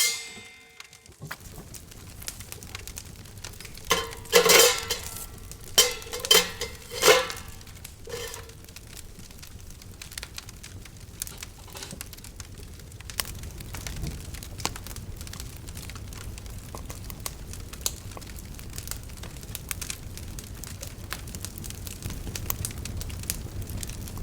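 Wood campfire crackling with many small pops as it catches. Several ringing clinks sound about four to seven seconds in.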